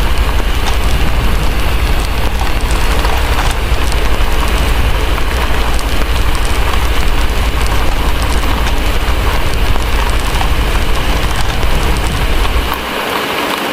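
Steady heavy rain with a fire crackling, layered over a deep constant rumble. The rumble cuts out about a second before the end.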